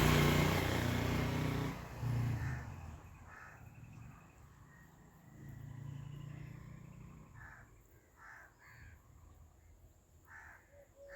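A motor vehicle's engine running loudly at first and fading over about two seconds, with a fainter engine hum a few seconds later. In the second half a bird gives a series of short, harsh calls.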